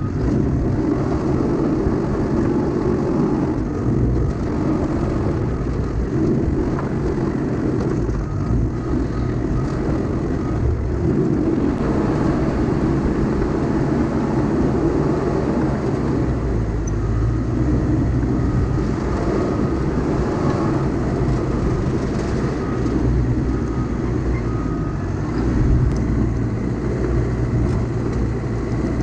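Diesel engine of a CAT bulldozer or excavator running steadily under load during earthmoving, its low engine note shifting about halfway through.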